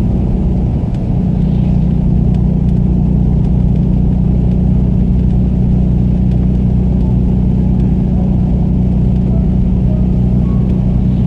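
Motor vehicle driving at a steady pace: an even, low drone of engine and road noise.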